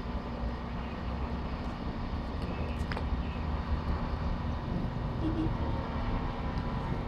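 Steady low mechanical drone of a standing passenger train's running engine and equipment, with faint voices in the background.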